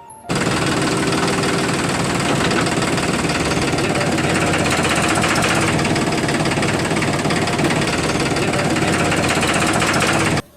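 A small motor running steadily with a fast rattling buzz, starting suddenly and cutting off suddenly about ten seconds later.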